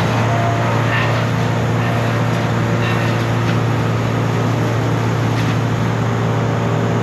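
A large machine engine running steadily at a constant speed, with a deep, even hum and a few faint knocks over it.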